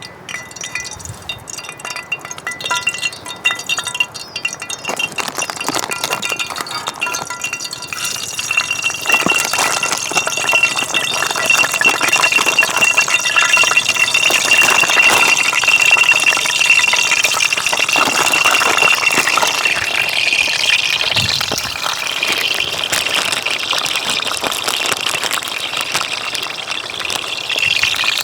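Clinking and rattling, with an even hiss that builds from about eight seconds in and a thin steady high tone through the middle stretch.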